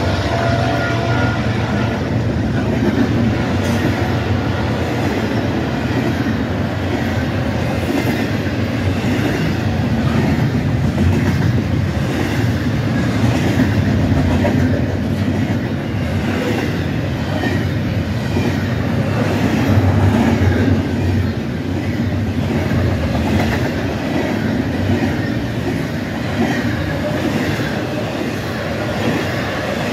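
Freight train of double-stack container cars rolling past at speed: a steady heavy rumble of steel wheels on rail, with a clickety-clack of wheels over rail joints.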